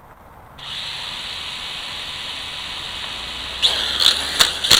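Small electric drone motors of a Parrot Bebop quadcopter, a steady high whine that starts suddenly about half a second in, with several sharp clicks in the last second or so. The owner suspects the drone's weak motors brought it down.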